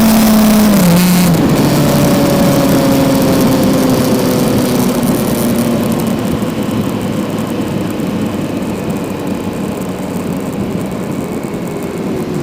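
Kawasaki Z900's inline-four engine heard onboard, its pitch dropping in two steps in the first second and a half as it shifts down and slows. It then runs at lower revs with a slowly falling pitch, while the wind rush and the overall level ease off.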